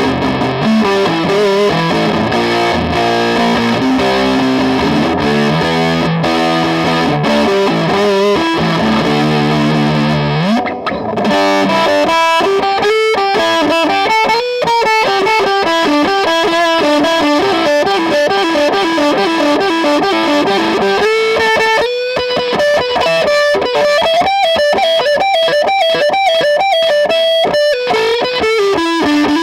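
Electric guitar played through a distortion pedal at a hard distortion setting: riffs and chords for about ten seconds, a pitch slide down, then a single-note lead line with bends and vibrato.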